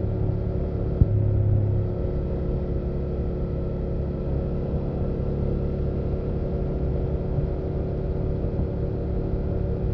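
BMW F800GS parallel-twin engine running steadily while the bike is ridden. A sharp click comes about a second in, and the engine is louder for about a second after it.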